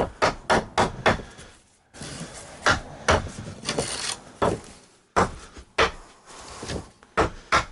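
Particle board subfloor panels being knocked and thumped: about fifteen sharp, irregular knocks, a quick cluster of five or six at the start and scattered ones after, with some scraping of board on board between them.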